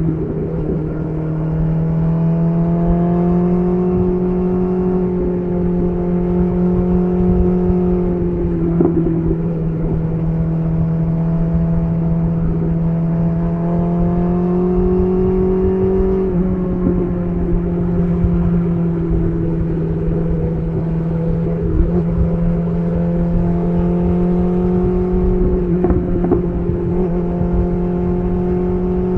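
BMW S1000RR inline-four engine running through an SC Project titanium exhaust at a fairly steady speed, its pitch drifting slightly up and down, with brief dips about half a second in and around sixteen seconds in. A low rumble of wind and road noise sits beneath it.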